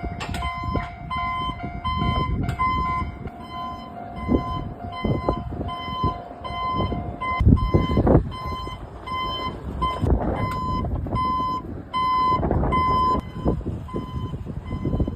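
Electronic warning beeper sounding over and over at a steady pace, over the low rumble and knocks of a small light-railway vehicle running on the track. A steady tone is held alongside the beeps for about the first half, then stops.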